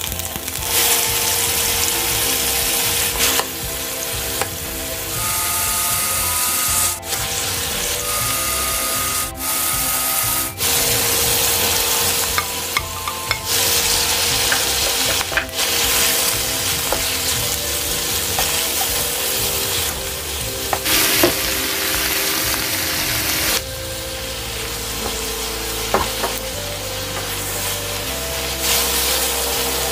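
Thin-sliced pork belly, and then napa cabbage and bok choy stems, sizzling in hot oil in a non-stick wok while a wooden spatula stirs and scrapes them. The sizzle is steady, with a few abrupt breaks.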